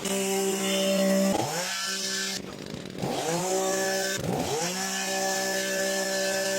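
Small two-stroke engine of an Echo PAS-2620ES multi-tool running at high revs to drive a hedge trimmer attachment. The throttle is let off and opened again three times, so the pitch drops and climbs back, most deeply around the middle.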